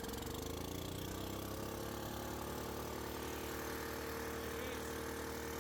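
Club Car golf cart's small gas engine just after starting: it picks up speed over the first second, then runs steadily at a constant speed, held running in the cart's maintenance mode with the stuck carburetor needle and seat freed.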